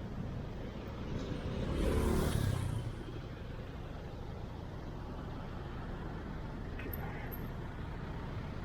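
Street traffic: a steady low engine rumble, with one vehicle passing close about two seconds in, swelling and then fading.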